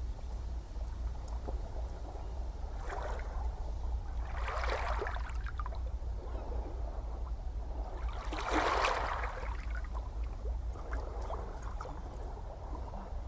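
Gentle ocean waves washing ashore: swells of hissing surf, the biggest about four and eight seconds in, over a steady low rumble.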